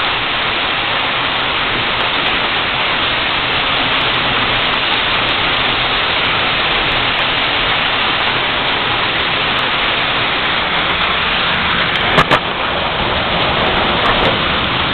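Hail falling hard, a dense steady clatter of hailstones striking the ground and nearby surfaces. About twelve seconds in, two louder, sharper impacts stand out, and a smaller one follows a couple of seconds later.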